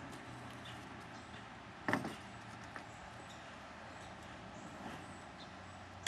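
A single sharp knock or thump about two seconds in, followed by a few faint clicks, over a steady quiet background.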